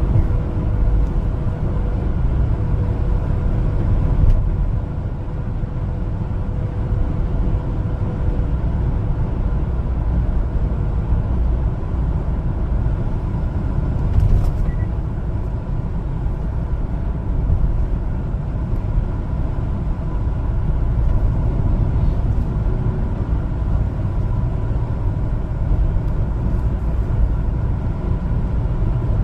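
Steady low rumble of engine and road noise from a one-ton LPG cargo truck on the move, with a faint whine that fades out about ten seconds in.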